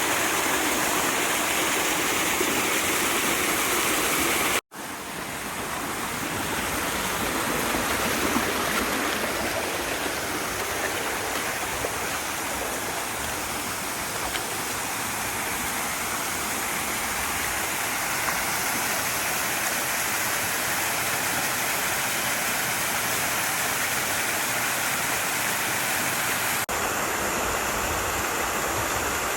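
Mountain stream water rushing and splashing over rocks in a steady roar. It drops out for an instant about four and a half seconds in, then resumes.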